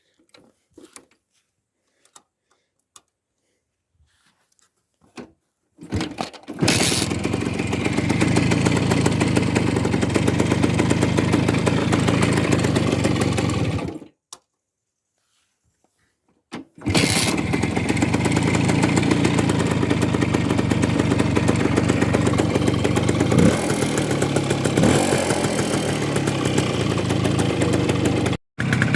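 Voskhod motorcycle's two-stroke single-cylinder engine: after a few light clicks and knocks it starts about six seconds in and runs steadily, cuts out suddenly about halfway, then starts again and runs on with a couple of short revs and a brief dropout near the end.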